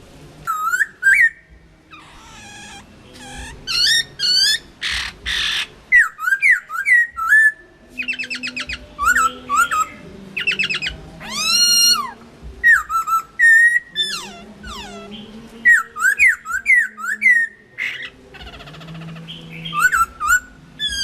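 Chinese hwamei (Garrulax canorus) singing: a loud, varied string of clear whistled phrases, mixing quickly repeated notes with sliding ones and short pauses between phrases.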